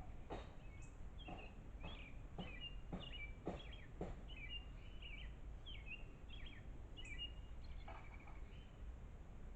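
A small bird chirping in short, repeated notes, about two a second, with a run of sharp clicks or taps during the first four seconds.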